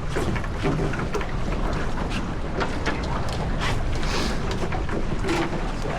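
Wind buffeting the microphone with a steady rumble, over water splashing and slapping irregularly against a sailboat's hull as it sails.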